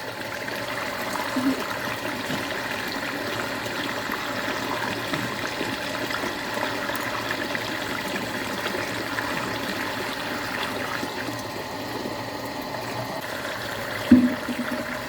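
Water running steadily, with a short thump about fourteen seconds in.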